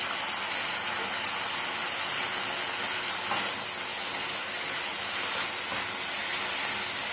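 Chicken and curry leaves frying in oil in a pan: a steady sizzle.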